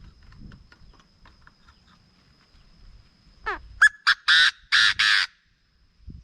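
Chinese francolin calling: about three and a half seconds in, a sliding note, then a quick loud run of harsh notes lasting under two seconds. A faint steady high tone sounds underneath.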